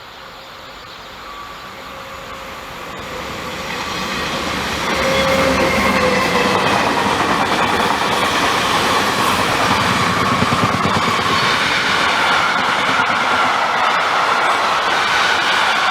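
A train approaches and passes close by. It grows louder over the first five seconds, then runs loud and steady with a high whining tone through the rest of the pass.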